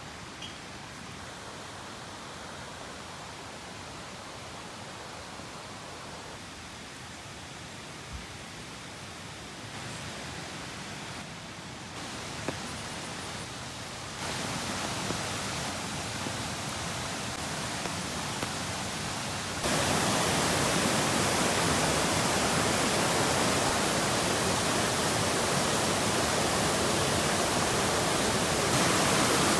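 Heavy rain falling steadily, a dense even hiss that gets louder in steps, jumping up sharply about 20 seconds in.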